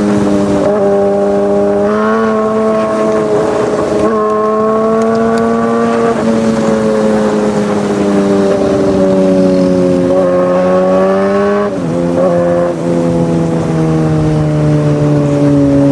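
Superbike engine running at high revs on the move, its note held fairly steady with small shifts in pitch, then dropping to a lower note about twelve seconds in.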